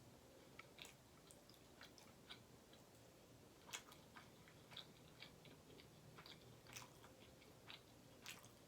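Faint, close chewing of butter chicken and garlic naan: soft, irregular mouth clicks and smacks with the quiet hiss of a small room between them.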